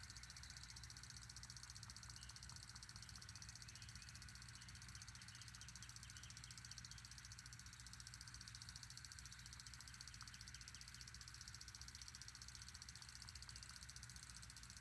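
Near silence: faint outdoor ambience with a low steady hum and scattered faint high chirps.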